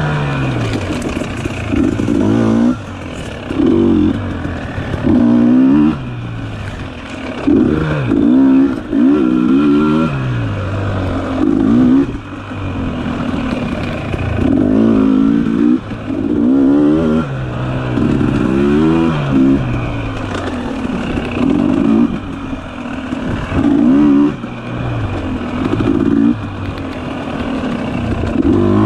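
Dirt bike engine revving up and falling back again and again as the throttle is opened and closed through tight trail turns, with short drops in between.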